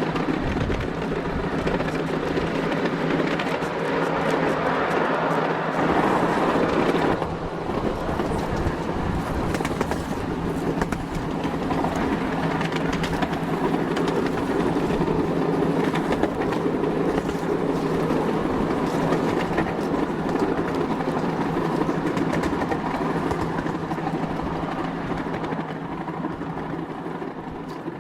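A train running on rails: a steady rumbling noise over a constant low hum, changing character about seven seconds in and easing off near the end.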